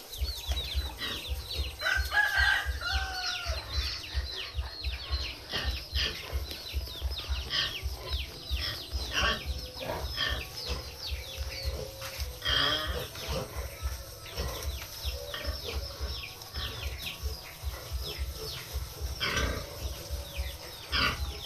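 Pigs at their feed, eating noisily with a fast, uneven low smacking, while poultry keep up many short, high, falling peeps throughout.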